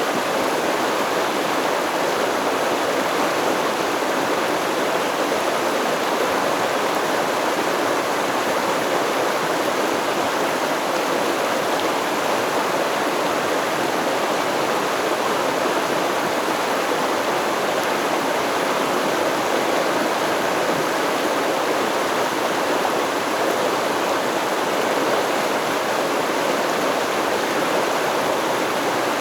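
Stream water flowing, a steady even rush without change.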